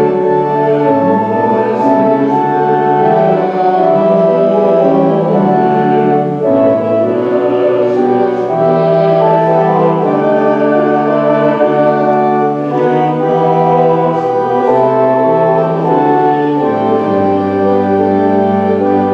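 Church organ playing slow, sustained chords that change step by step, with a deep held bass note coming in near the end.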